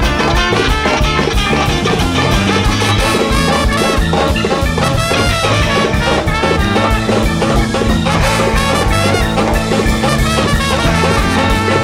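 Live big-band jazz: a horn section of saxophones and trumpet over a steady drum beat, bass and keys, played at full volume.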